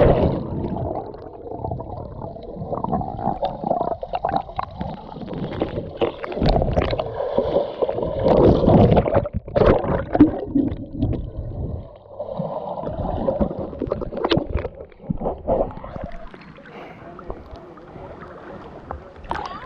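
Muffled splashing and gurgling of sea water around a waterproof camera held in the water, irregular, with a loud splash right at the start.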